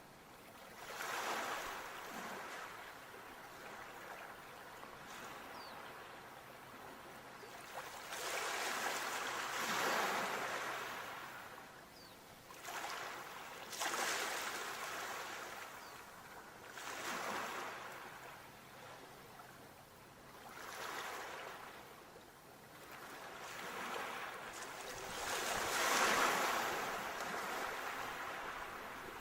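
Sea waves breaking and washing on a shore, each one swelling and fading away, with a new wave every four to eight seconds.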